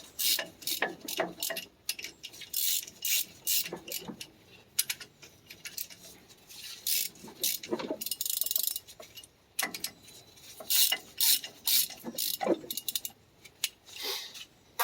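Hand ratchet wrench clicking in repeated short bursts as bolts on the tractor's front axle are turned.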